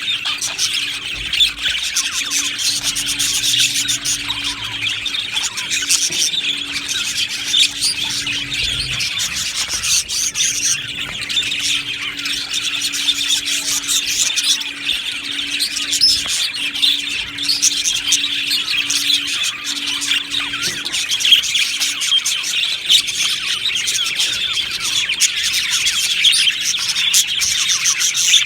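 A colony of budgerigars chattering, with many birds chirping and warbling at once in a continuous dense chorus.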